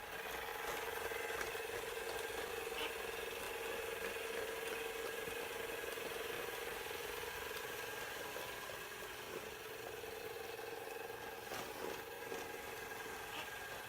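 ILIFE V7s Plus robot vacuum cleaner running: a steady motor whir with a humming tone, and a few faint clicks and rattles.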